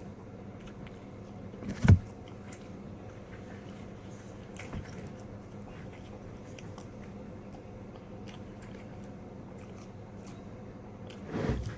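A person chewing pepperoni pizza, with faint small mouth clicks and one sharp knock about two seconds in, over a steady low hum.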